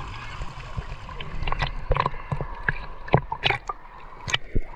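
Sea water sloshing and gurgling, with a run of short, sharp splashes in the second half.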